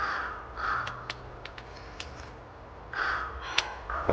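Several short, harsh animal calls: two close together at the start, another about three seconds in and one near the end, with a few sharp clicks in between.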